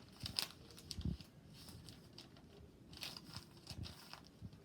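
A sheet of paper being folded and creased by hand, giving short, faint rustles and crinkles in a few bunches.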